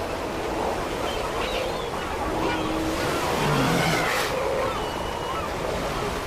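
Surf washing over rocks, with scattered short honking calls from a Steller sea lion colony.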